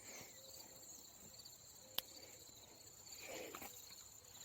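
Faint steady chorus of insects, holding a high tone throughout, with a single sharp click about two seconds in.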